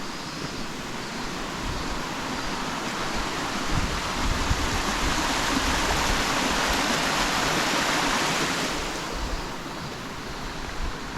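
Rushing water of a mountain stream beside the road, a steady hiss that swells louder through the middle for several seconds, with occasional low wind rumble on the microphone.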